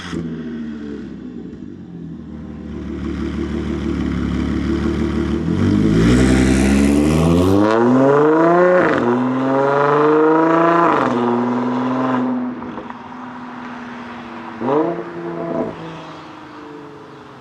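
Audi S4 B8.5's supercharged 3.0 V6 through an AWE exhaust on test pipes: idling, then the revs climb steadily twice in a row before dropping back to a steady low note, followed by two quick blips of the throttle.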